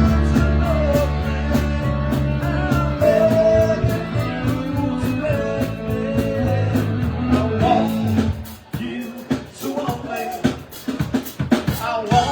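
Live rock band playing amplified guitars, bass and drum kit with sustained chords. About eight seconds in, the chords drop out and mostly the drums carry on.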